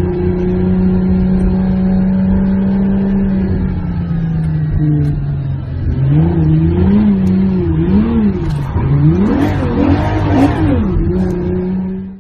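Car engine held at high revs, sagging slightly, then revved up and down several times in quick swings before settling back to a steady high pitch; cuts off abruptly at the end.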